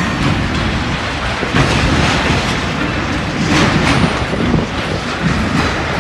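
Strong wind buffeting the microphone in uneven gusts, a loud rumbling noise that swells and eases every second or two.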